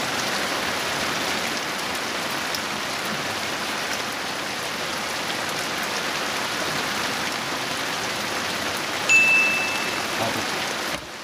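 Heavy rain pouring onto the reservoir surface and the raft, a steady hiss. About nine seconds in comes a brief, high, steady beep lasting under a second.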